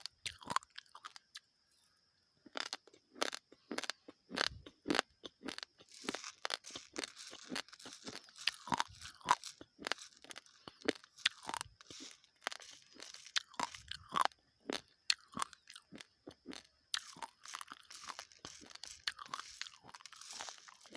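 Raw basmati rice grains crunched and chewed close to the microphone: many sharp cracks with dense crackling stretches and a brief pause about a second in.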